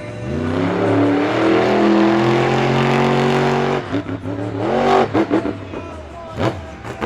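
Monster truck engine revving up and held at high revs for about three seconds, then dropping off suddenly and blipping in short bursts.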